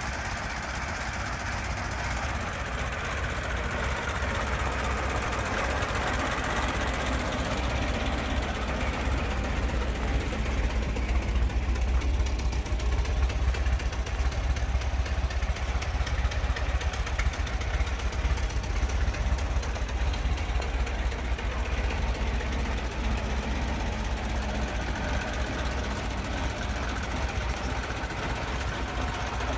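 1926 Ford Model T truck's four-cylinder flathead engine idling steadily and running well, a little louder midway through.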